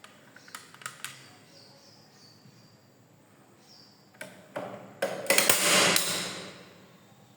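Sharp mechanical clicks and clacks from a heavy-duty hand staple gun being worked, three light clicks early, then a louder, rough clattering burst about five seconds in that lasts about a second and fades.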